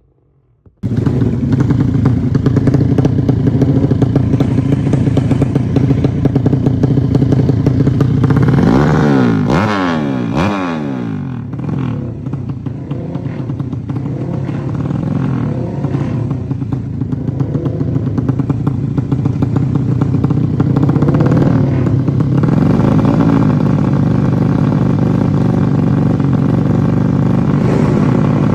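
Drag-bike motorcycle engine, a Honda Supra build with a Yamaha Jupiter cylinder head, running loud while being tuned. It cuts in abruptly about a second in, the revs sweep up and down around the middle, then it settles back to a steady run.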